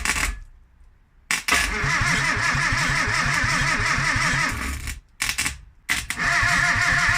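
Rebuilt Morris Minor 948cc four-cylinder engine on its first start: it turns over for about three seconds and stops, then about five seconds in it is tried again and catches, running steadily.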